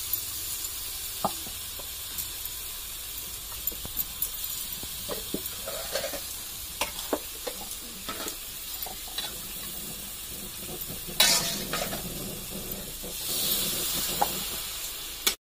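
Onion and ginger-garlic masala sizzling in hot oil in a metal kadai, with a flat metal spatula scraping and tapping against the pan. There is one louder, brief rush of noise about eleven seconds in.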